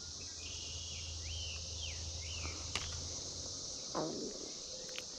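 Steady high-pitched drone of an insect chorus, with a bird's quick rising-and-falling chirps over it in the first half and a faint click partway through.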